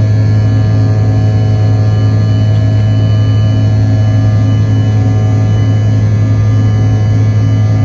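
Steady, loud drone of a CRJ-900's rear-mounted GE CF34 turbofans heard inside the cabin, a deep hum with several steady tones over it, unchanging throughout.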